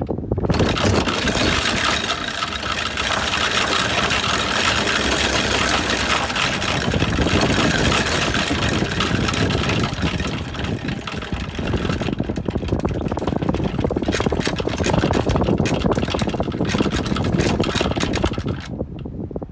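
Motor yacht's anchor chain paying out. A loud continuous metallic rattle breaks into separate clanks about twelve seconds in and stops abruptly near the end as the anchor drops.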